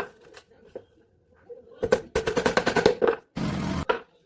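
A rapid run of sharp knocks from woodworking tools, about ten a second for a little over a second, followed by a half-second burst of hiss.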